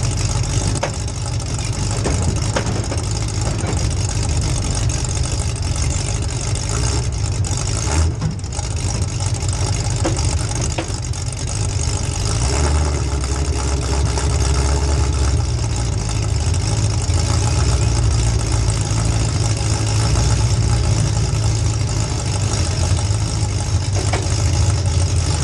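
Demolition derby car's small-block Chevy V8 running steadily, with a few light knocks.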